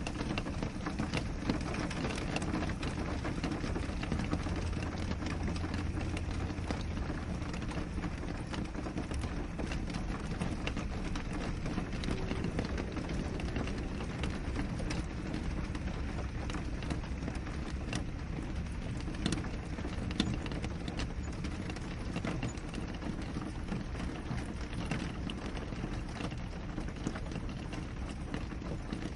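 Steady rain falling on a window: an even rushing noise dotted with many small, sharp drop ticks, with no let-up.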